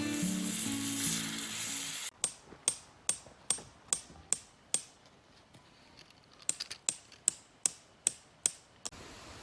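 Music for about the first two seconds, then a hammer striking metal in two runs of quick, even blows, about two to three a second, each with a short high ring, with a pause between the runs.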